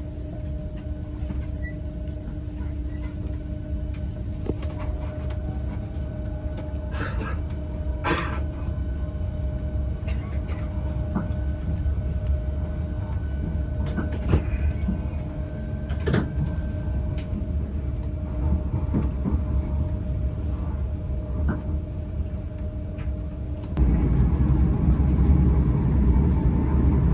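Southeastern Class 395 Javelin electric train heard from on board: a steady low rumble with a steady electrical hum and scattered clicks and knocks. About 24 seconds in, the rumble suddenly gets louder.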